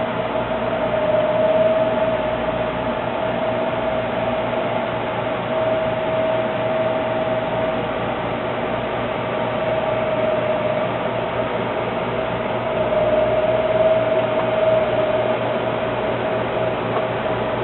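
Steady mechanical hum from a small motor, with a high tone that grows louder and softer a few times.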